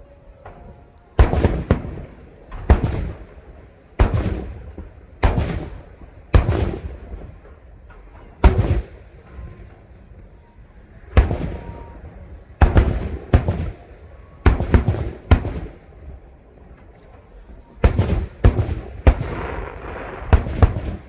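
Aerial firework shells bursting overhead: a string of loud, sharp booms, each trailing off in a rumbling echo. They come irregularly, with a short lull in the middle and a quick cluster near the end.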